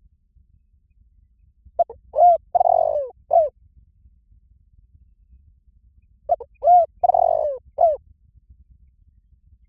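Spotted dove cooing: two identical phrases about four and a half seconds apart. Each phrase is a couple of short coos, one longer drawn-out falling coo, then a short closing coo.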